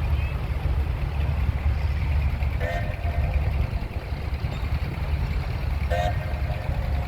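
Steady low rumble of running engines, with two short pitched sounds about three seconds apart.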